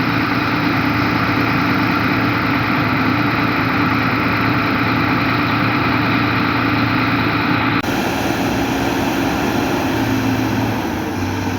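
Heavy diesel engine of construction machinery running steadily, with an abrupt change in the sound about eight seconds in.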